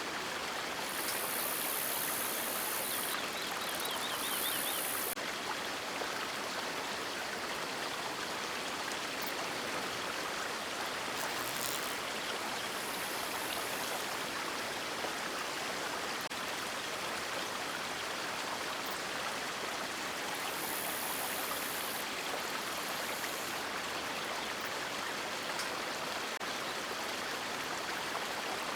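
River water rushing and splashing in a steady, even wash. A faint high-pitched buzz comes and goes several times over the top.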